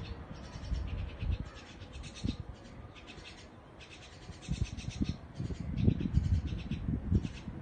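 Birds chattering in quick, repeated chirps, over irregular low thumps and rumble that are strongest in the second half.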